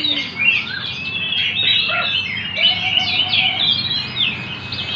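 Several caged songbirds singing at once in a birdsong contest, a dense, overlapping stream of quick chirps and whistled phrases.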